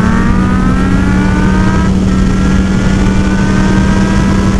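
Yamaha R1 inline-four with a Toce slip-on exhaust accelerating hard, its pitch rising, with an upshift about two seconds in before it climbs again. Wind rushes over the microphone throughout.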